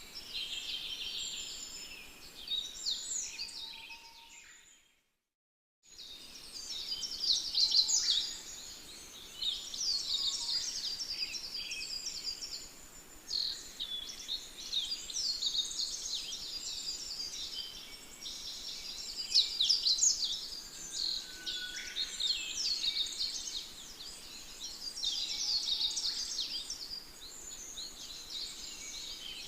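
Many small birds chirping and singing at once in a dense, busy chorus. The sound fades out to silence about five seconds in and picks up again a second later.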